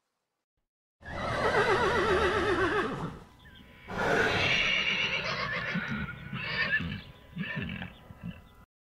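Horse whinnying twice: a quavering whinny about a second in, then a longer second whinny from about four seconds in that fades out in short broken pieces.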